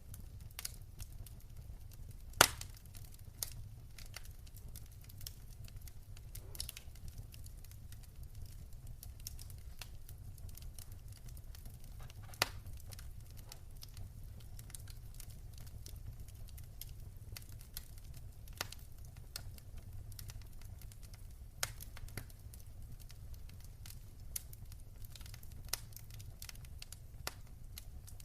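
Wood fire crackling in a fireplace: scattered sharp pops and snaps over a steady low rumble, with the loudest pops about two seconds in and again about twelve seconds in.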